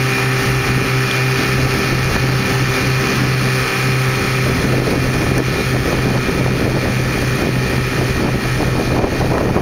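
Two 7.5 hp outboard motors, a Johnson and a Mercury, running together at a steady speed.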